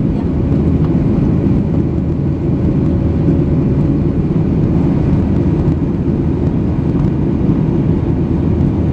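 Steady jet airliner cabin noise: engine and airflow rumble, loud and even, with a faint steady tone above it.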